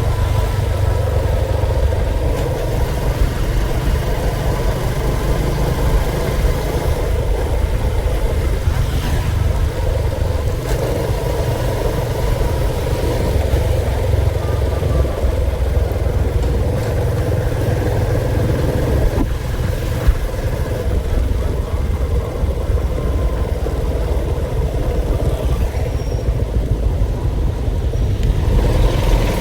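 A motor vehicle running steadily, with a strong, even low rumble and no clear changes in pace.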